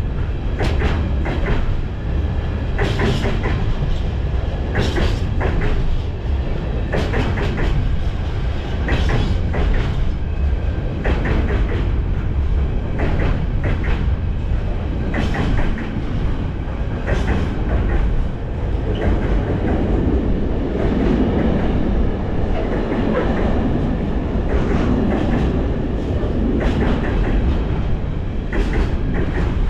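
Container wagons of a freight train rolling past close by: a steady heavy rumble with wheels clattering over rail joints in a regular beat, roughly one clatter every two seconds.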